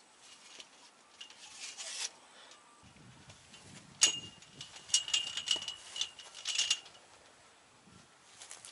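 A series of sharp clicks and light metallic clinks from small objects being handled, loudest about four seconds in and clustered over the next three seconds, with a faint thin ringing under them.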